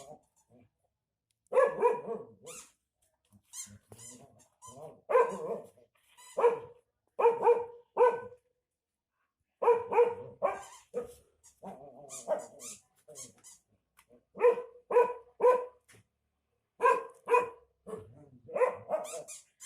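Dog barking angrily at a noise-making toy: short barks, mostly in quick runs of two or three, with pauses of a second or more between runs.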